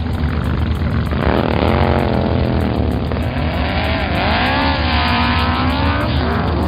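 Cartoon truck engine sound effect revving, its pitch rising and falling several times over a low steady rumble.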